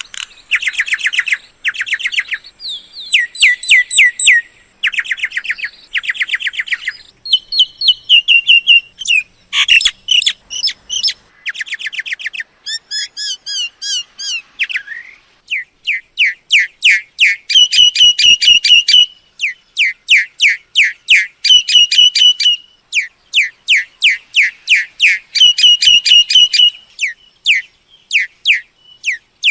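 Myna calling: phrase after phrase of rapid repeated chattering notes and clear whistles, each phrase a second or two long with short gaps between.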